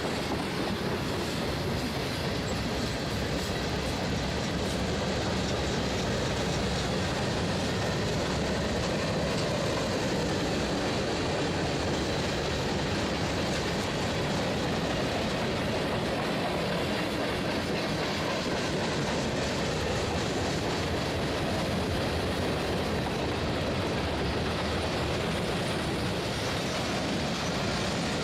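Freight train cars rolling past at speed, a steady clatter of steel wheels over the rails.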